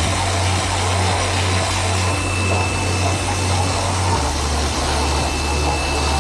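A small motor running steadily, with a low hum under an even hiss.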